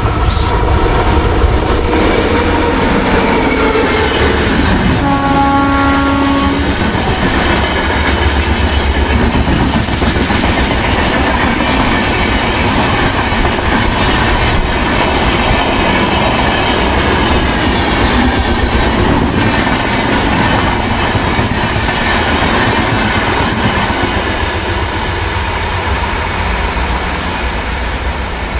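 A WAP-7 electric locomotive and its express coaches passing at full speed: a steady loud rush and clickety-clack of wheels on rail throughout, with a falling whine as the locomotive goes by. About five seconds in, the train's horn sounds once for under two seconds.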